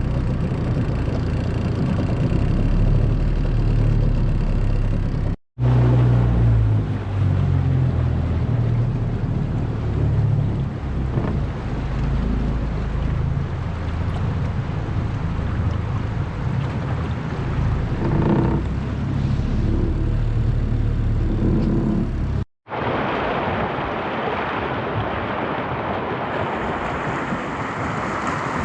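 Small outboard motor on a boat running at a steady low rumble, broken twice by brief cuts. For the last several seconds it gives way to an even rush of moving water.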